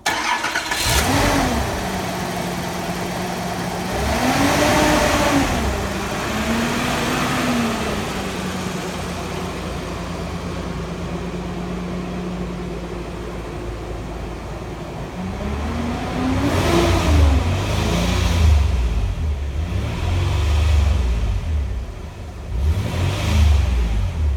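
1986 Nissan 300ZX's V6 engine running. It is blipped a few times near the start, idles steadily through the middle, then is revved several more times in quick succession near the end.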